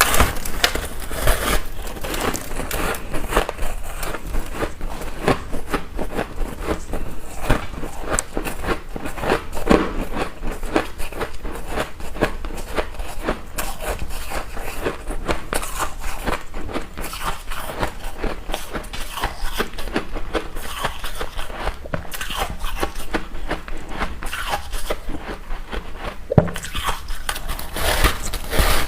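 A person chewing ice close to the microphone: a continuous run of crunching and crackling as the ice cubes break between the teeth.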